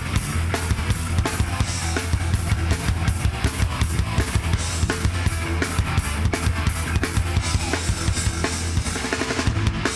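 Live hardcore punk band playing an instrumental passage: fast, steady drum-kit beats with bass drum and snare under distorted electric guitar and bass.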